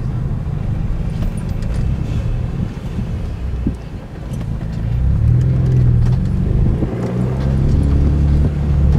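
A car's engine and road noise heard from inside the cabin while driving. About five seconds in the engine grows louder and its note rises as the car accelerates.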